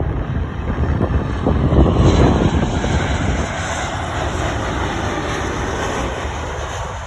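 Landing airliner's engines passing, loudest about two seconds in and then fading as it moves away. Wind buffets the microphone with a gusty low rumble near the start.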